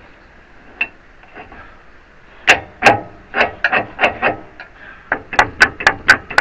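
Hammer striking the little metal pivot pin of a Case 580 backhoe's bucket ram to drive it into place. There are a few spaced blows, then a quicker run of about four blows a second near the end.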